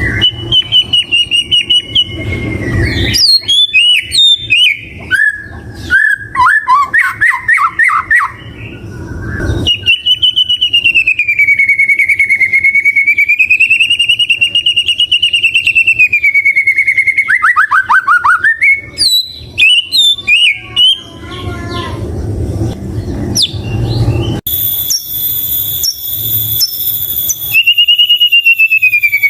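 White-rumped shama (murai batu) singing a loud, varied song: long wavering whistles, fast trills and sharp clicking notes, and a rapid run of high repeated notes near the end.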